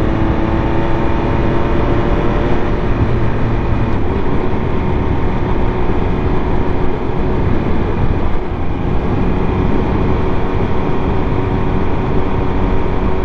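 Triumph Speed Triple 1200 RS inline-three engine running at a steady cruise while the bike is ridden, its note holding level and creeping slightly higher, under a steady rush of wind and road noise.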